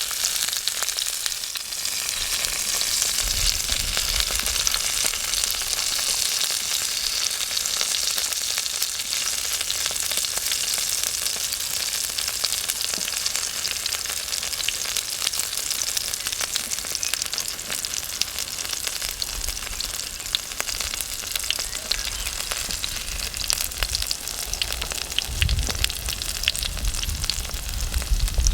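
Food sizzling steadily in a hot pan over a wood fire, a dense hiss with fine crackles throughout.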